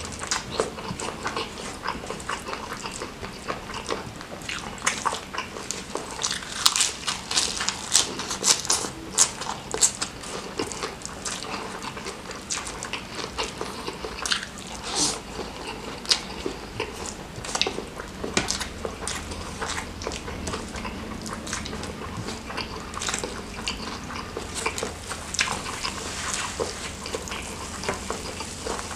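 Close-up wet chewing and lip smacking from a person eating rice mixed with spicy squid sauce by hand. There are many quick, sharp smacks and clicks throughout.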